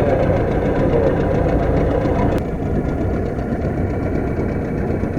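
Boat engine running steadily while trolling, with a sharp click and a slight drop in level about two and a half seconds in.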